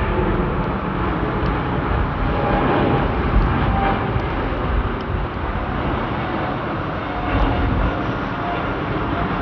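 Jet airliner engines during departure, a loud, steady rumble with faint tones that slowly fall in pitch.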